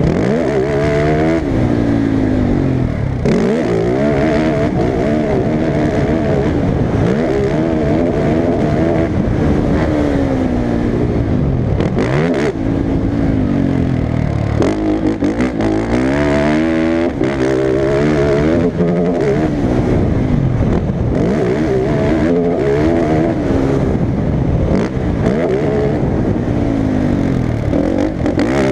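Racing ATV (quad) engine revving hard, its pitch climbing and dropping again and again as the throttle is worked.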